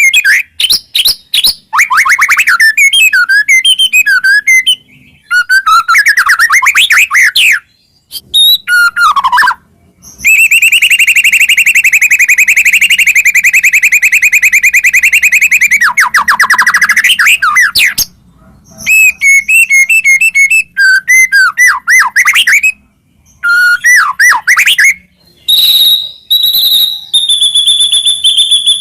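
White-rumped shama (murai batu) singing loudly: a varied run of whistled phrases and quick trills, broken by short pauses, with one long fast trill of about six seconds in the middle and a held high whistle near the end.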